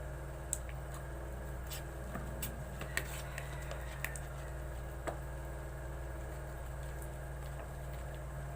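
Steady low hum of a generator running, heard during a power outage, with a few sharp clicks in the first half.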